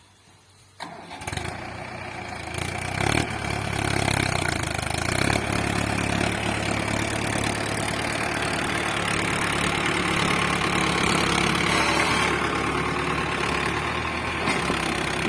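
Tractor engine starting up about a second in, then running steadily.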